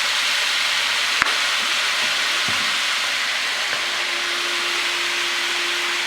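Shredded chicken and jicama sizzling steadily in a hot wok with oil, butter and soy sauce, with one sharp click just after a second in. A faint steady tone joins about four seconds in.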